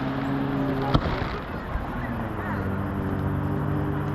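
Long, steady horn blasts: one horn held until a sharp firework bang about a second in, then a second horn at a slightly different pitch sounding from about halfway.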